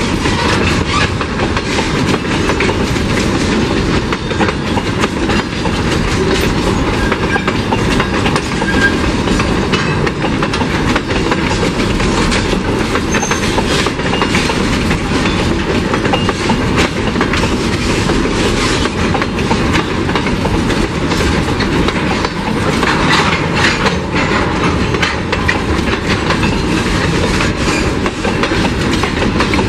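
Empty curtain-sided freight wagons of a long train rolling past close by, their wheels clattering steadily over the rail joints.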